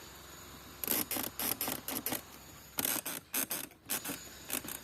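Plastic centre-tunnel trim of a Renault Megane creaking and squeaking in two runs of rapid short creaks, starting about a second in and again about three seconds in: its plastic parts rubbing at the joints.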